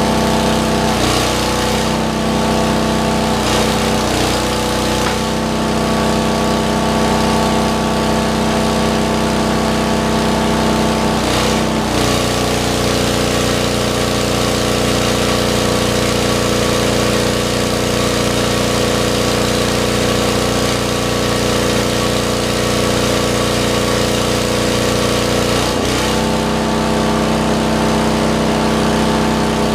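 Lincoln Weldanpower 150 engine-driven welder's engine running steadily. Its pitch wavers a couple of seconds in, drops slightly about 12 seconds in, and dips briefly around 26 seconds in.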